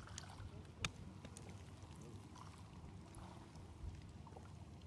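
Faint moving water, lapping and trickling, with a low steady rumble and a sharp click about a second in.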